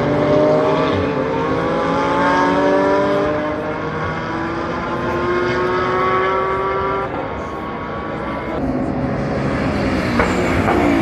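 Several GT race car engines accelerating hard at once, their pitch climbing steadily until about seven seconds in. After that they drop back to a lower, quieter engine noise.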